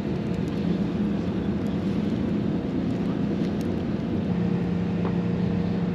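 An engine running steadily under a noisy rumble, its hum dropping slightly in pitch about four seconds in.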